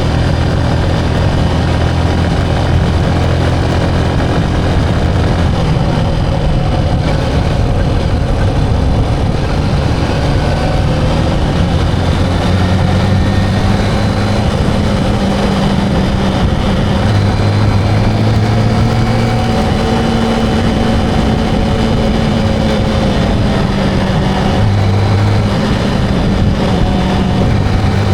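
Motorcycle engine running while riding, its low note stepping up and down with the throttle over steady road and wind noise.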